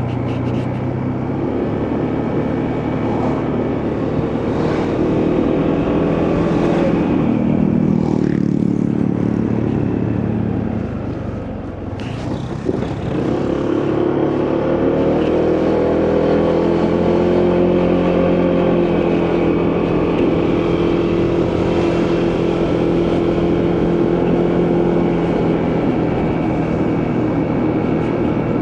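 Motorcycle engine running while riding, over a haze of wind and road noise. Its pitch rises and falls with the throttle, drops away about eleven seconds in, then climbs again and holds fairly steady.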